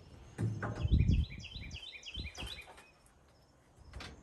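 A songbird singing a quick run of repeated chirping notes for about two seconds, over a few heavy low thuds and knocks near the start.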